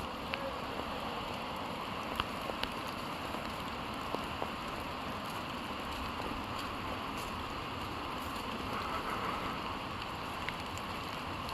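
Steady rain falling in forest, a continuous hiss with a few sharper individual drops ticking now and then.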